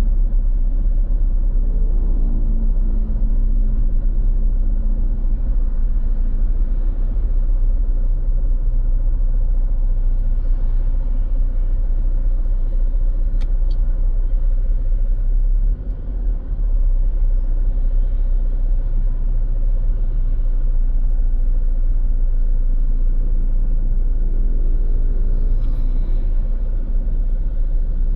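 Road traffic going by steadily, with engine sounds that rise and fall in pitch as vehicles pass a few seconds in and again near the end.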